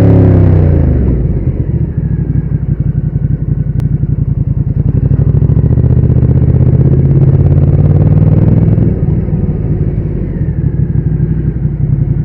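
Ducati Diavel's L-twin engine dropping from higher revs in the first second to a loud, lumpy, pulsing idle, which swells slightly midway and then settles again.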